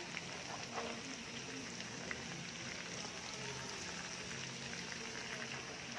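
Chopped onion, garlic and ginger frying in bubbling butter in a wok: a steady sizzle with fine crackles.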